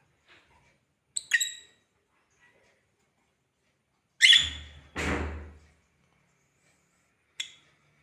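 African lovebirds giving short, high squawking calls, four separate calls spaced a few seconds apart. The loudest comes about four seconds in and is followed straight away by a harsher, noisier call.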